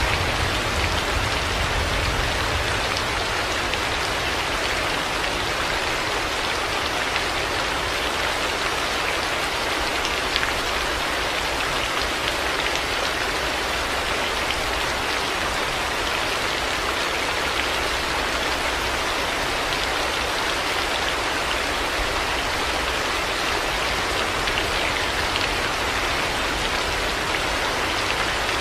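Heavy rain falling steadily, a dense even hiss of drops hitting the ground and surfaces, with no thunder.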